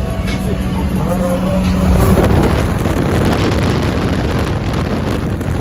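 Car driving on the road: engine drone with road and wind noise, swelling louder about two seconds in as it picks up speed.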